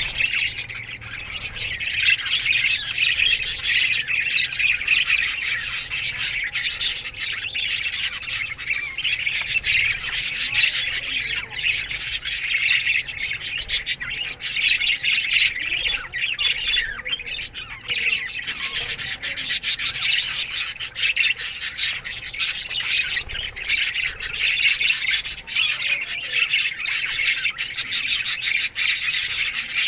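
A colony of budgerigars chirping, chattering and squawking together in a dense, continuous chorus.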